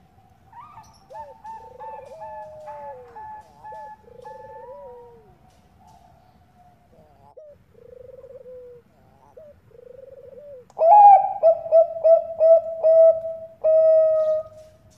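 Zebra doves (Bangkok-strain perkutut) cooing: fainter overlapping coos in the first half. Then, about eleven seconds in, a close bird sings loudly, a rapid run of short staccato coos ending in a longer held note.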